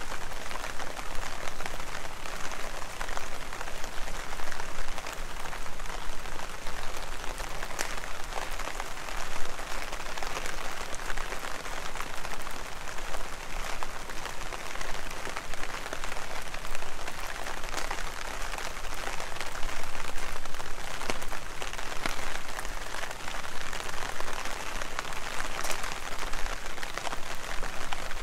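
Heavy rain falling and splashing: a steady hiss dense with sharp individual drop ticks.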